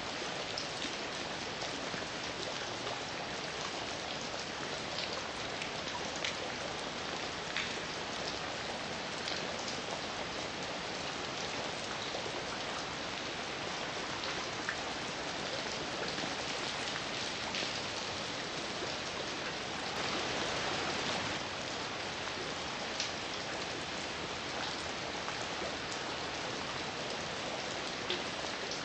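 Steady heavy rain falling, an even hiss with scattered sharper drops striking a surface; it swells briefly about two-thirds of the way through.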